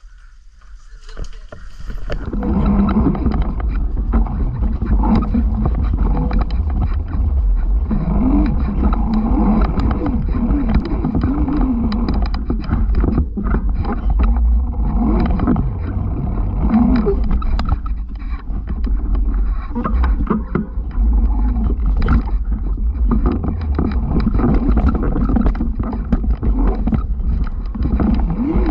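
Wind rumbling on the microphone of a bike-mounted camera while riding off-road, with a motorcycle engine revving up and down. It comes up loudly about two seconds in.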